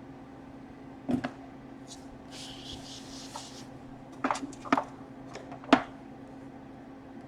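Sharp clicks and light knocks of small hard parts being handled on a workbench, a pair about a second in and a cluster of four more around five seconds in, with a short hiss in between, over a steady low electrical hum.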